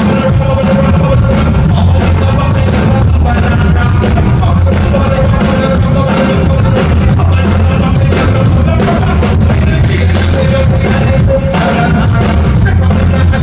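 Loud live band music with heavy bass, drums and a held keyboard or horn note, heard as a concert recording.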